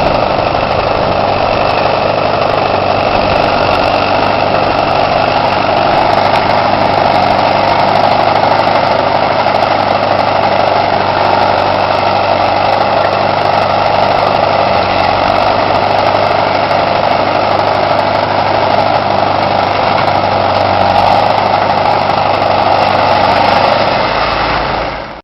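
A vehicle engine running steadily at an unchanging speed, then cutting off abruptly at the very end.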